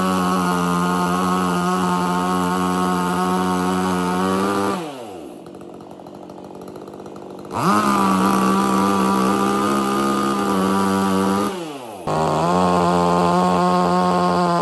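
Petrol chainsaw running at high revs. About five seconds in the throttle is released and it falls to idle for a few seconds, then revs back up. It drops off briefly again a few seconds before the end and picks straight back up.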